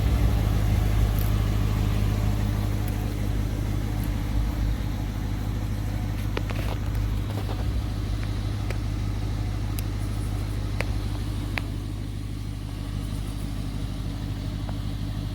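Dodge Charger R/T's 5.7-litre HEMI V8 idling steadily, with a few faint clicks over it.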